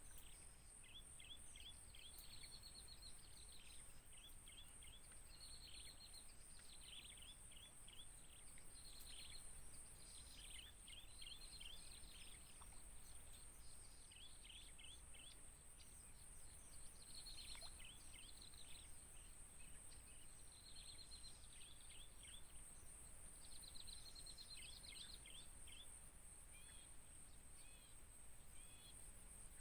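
Birds chirping faintly in short, quick runs of notes, repeated every second or two, over a steady high insect buzz.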